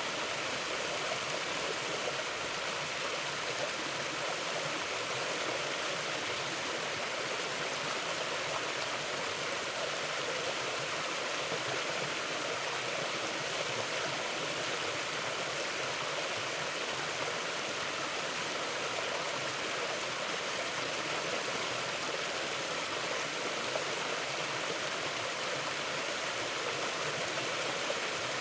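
Small mountain stream flowing over rocks, a steady rushing and gurgling of water with no change in level.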